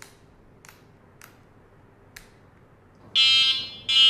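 A few soft switch clicks, then two loud buzzy beeps of about half a second each from an electric bike's electric horn near the end.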